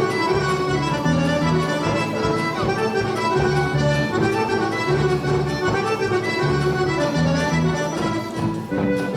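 Serbian folk dance music led by accordion, with a steady pulsing bass beat under sustained melody notes.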